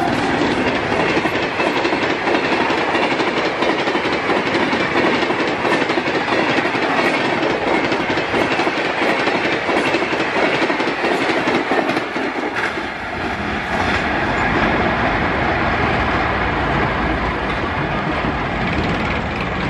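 Express passenger train rushing past at speed: a steady rush of coaches with wheels clattering over rail joints. About two-thirds of the way through the sound dips and turns to a deeper rumble.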